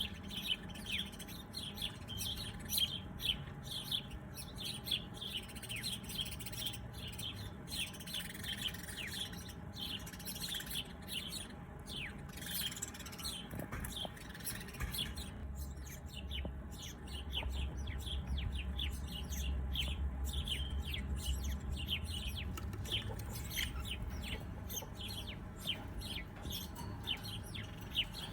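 Many small birds chirping at once, a dense run of quick, short downward-sliding chirps. A low rumble sits under them for several seconds past the middle.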